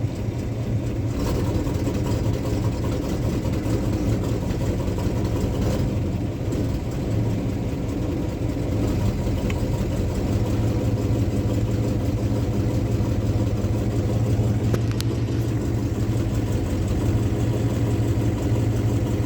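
Unibody Ford F-250 pickup's engine idling steadily just after a cold start, the engine still cold. The idle picks up slightly about halfway through.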